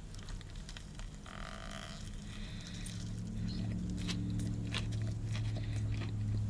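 Close-up chewing of a mouthful of crispy breaded fried chicken sandwich, with many small scattered crunches. A steady low hum runs beneath and grows a little louder about halfway through.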